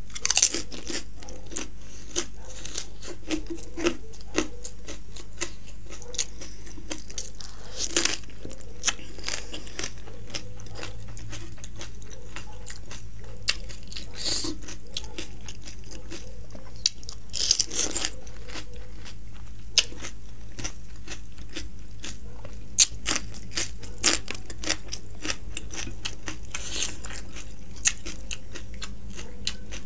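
Close-miked crunching and chewing of crisp fried panipuri shells as they are bitten, with sharp crackles coming in clusters a few seconds apart, loudest near the start, around a quarter of the way in, in the middle and in the last third, over a steady low hum.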